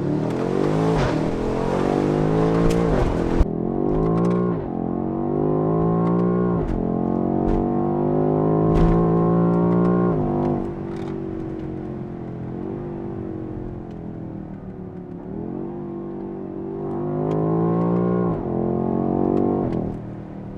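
BMW X6M's twin-turbo V8 through a Valvetronic Designs valved sport exhaust with the valves open, heard from inside the cabin under hard acceleration. The engine note climbs and drops at each upshift several times, with a sharp crack about three seconds in. It eases off to a lower, steadier note midway, then climbs again near the end.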